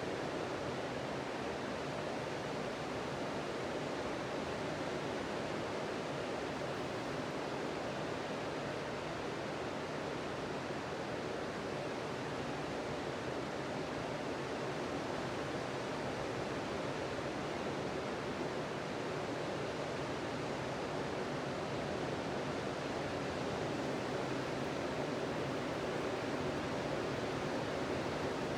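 Sea surf on a beach: a continuous wash of waves breaking, steady and unbroken.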